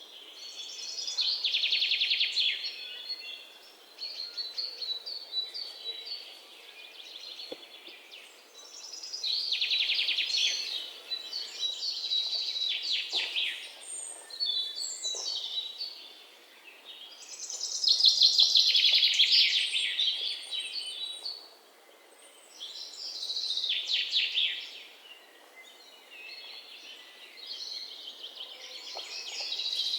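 Small songbirds chirping in bursts of fast, high notes, each burst lasting a second or three, with short quieter gaps between them.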